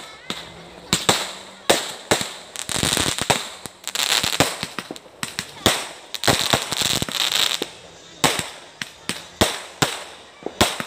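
Fireworks going off in quick succession: many sharp bangs at irregular intervals, with hissing, crackling stretches between them.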